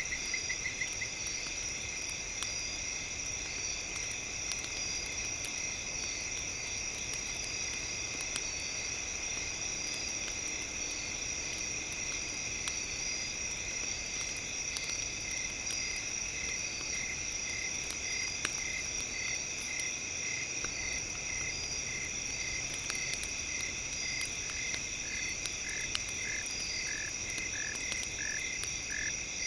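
A steady high chorus of insects and frogs, with a short call repeating about twice a second from about halfway in and a lower pulsing call joining near the end. Light crackles of a campfire come through the chorus.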